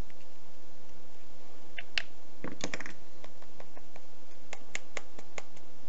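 Light clicks and taps of small metal tools, tweezers and a Torx screwdriver, against the phone's parts while working a tiny screw into its hole: a tap about two seconds in, a short cluster of clicks just after, then a run of light clicks about four or five a second near the end.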